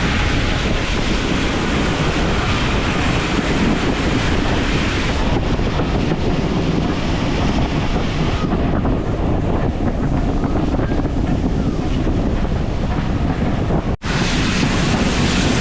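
Wind buffeting the microphone: a steady rushing noise with a momentary break near the end.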